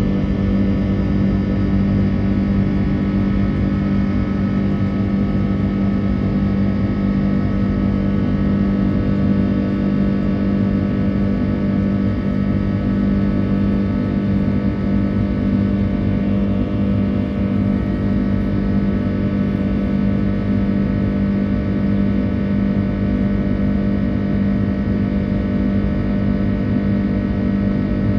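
Steady in-flight cabin drone of an Airbus A330-300's Rolls-Royce Trent 700 engines after take-off: a strong low hum with a layer of steady higher engine tones over it.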